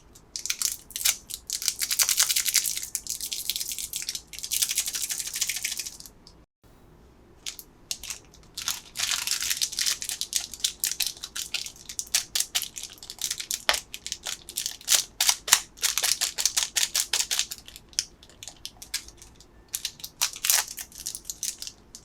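Plastic candy packaging being handled and opened, with crinkling and crackling in dense runs of sharp clicks. The sound breaks off briefly about six and a half seconds in.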